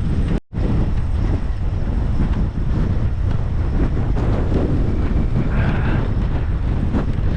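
Strong gusting wind buffeting the camera microphone despite its wind guard: a loud, steady low rumble. It cuts out completely for a split second about half a second in.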